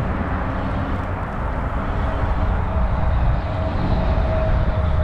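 Wind rushing over the microphone and rumble from a Zota Zephyr fat-tire e-bike being ridden along a trail. A faint, thin steady whine joins about halfway through.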